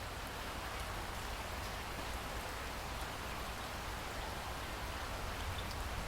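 Steady rain falling: a dense, even hiss of drops with a few sharper drop ticks, swelling slightly in loudness.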